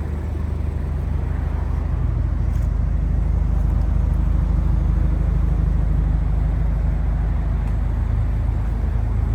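Turbocharged Scion FR-S flat-four engine running with a steady low rumble, getting a little louder over the first few seconds.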